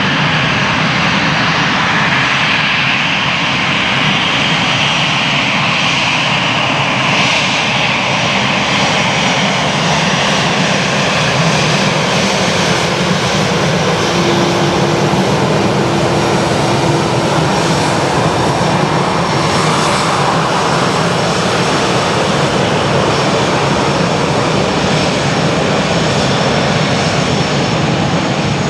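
Airbus A320-200 airliner's twin jet engines, a loud steady roar with a high whine that slowly falls in pitch over the first ten seconds or so.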